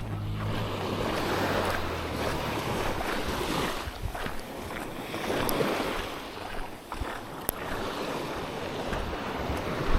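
Surf washing on a sandy beach, rising and falling in swells, with wind on the microphone. A low steady hum fades out in the first three seconds.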